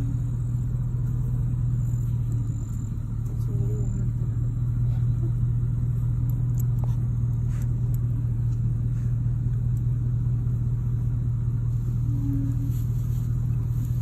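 Car engine running steadily with a low, even hum, heard from inside the car.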